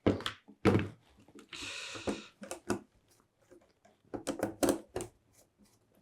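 Small knocks and clicks from handling tools and wires on a workbench, with a short hiss about a second and a half in and a quick cluster of knocks near the end.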